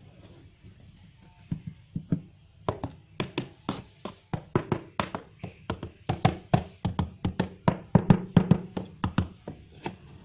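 A rapid, irregular run of taps and knocks on a cardboard box, about three a second, starting about a second and a half in.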